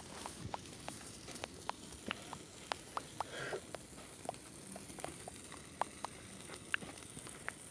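Campfire of burning firewood crackling, with sharp irregular pops about three times a second.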